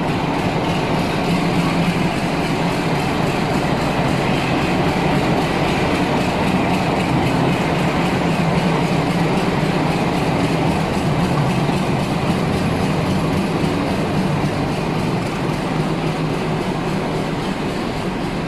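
A train running steadily on the rails: a continuous, even rumble of wheels and carriages that eases off slightly near the end.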